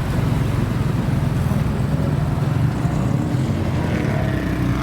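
Car engines running as cars drive out past the microphone, a steady low engine note with a rising engine tone near the end as one accelerates.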